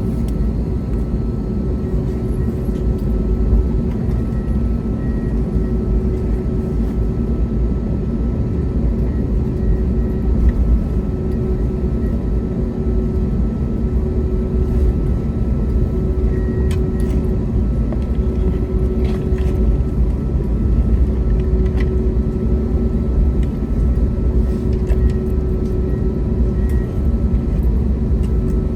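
Airbus A321neo cabin noise while taxiing after landing: a steady low rumble with a constant engine whine at idle, and a few faint clicks.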